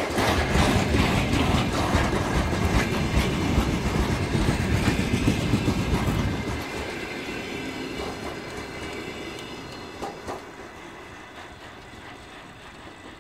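Freight train's covered hopper wagons rolling past, wheels clicking over the rail joints over a heavy low rumble. About six and a half seconds in the rumble drops off as the last wagon goes by, and the clatter fades into the distance.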